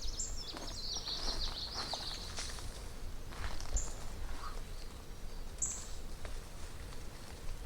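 Songbird singing: a rapid, jumbled run of high chirping notes in the first two and a half seconds, then a few single short chirps. Faint rustles are heard under it.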